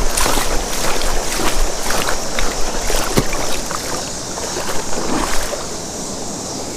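Rush of creek current flowing over shallow water, with scattered short knocks and rustles through the first five seconds or so, then just the steady water.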